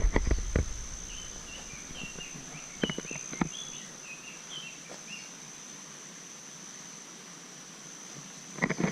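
Small birds chirping in short, high calls over a steady, high-pitched insect drone, with a couple of sharp knocks about three seconds in.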